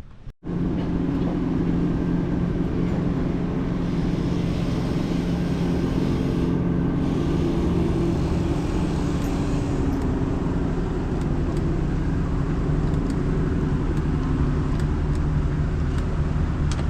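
Engine running steadily at a constant speed, an even drone with no revving, starting abruptly just after a brief cut-out.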